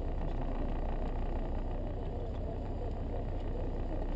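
Land Rover Defender 90's engine idling steadily while the vehicle waits, heard as a low, even rumble.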